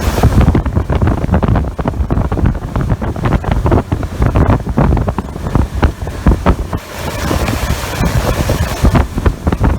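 Heavy wind buffeting the microphone aboard a moving boat, in uneven gusts and jolts, with water noise from the boat's run underneath.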